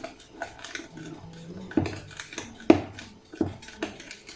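A utensil knocking and scraping against a mixing bowl while stirring cake batter, with scattered light taps and three sharper knocks in the second half, the middle one the loudest.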